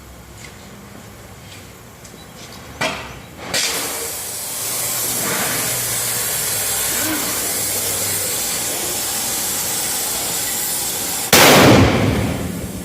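Homemade steel propane cannon: a knock, then a steady rushing hiss of gas for several seconds, then the cannon fires with a single loud blast near the end that dies away over about a second.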